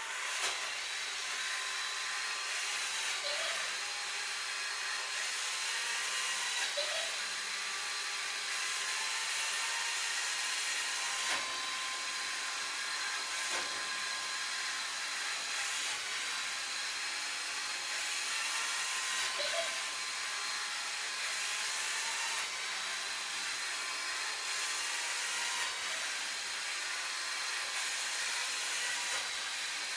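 Sharp Cocorobo robot vacuum cleaner running steadily, a constant whirring hiss with a high whine, and a couple of light knocks about halfway through.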